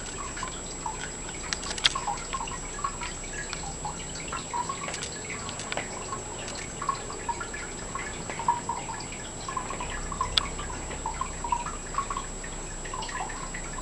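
Cat biting and clawing at a shoe: many small, irregular clicks and taps. A faint steady high whine sits under them.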